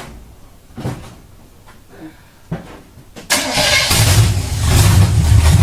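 Carbureted truck engine firing up about three seconds in with a sudden loud burst, then settling into a steady idle on a freshly tuned carburetor. A few faint knocks come before it starts.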